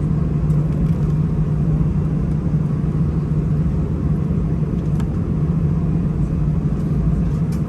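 Steady low rumble inside the cabin of an Airbus A319 airliner: its jet engines and the airflow, heard from a passenger seat.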